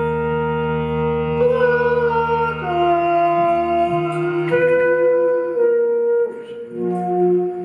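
Instrumental music from a small live ensemble: wind instruments holding long notes that move to new pitches in steps, over a low drone that drops out about three seconds in.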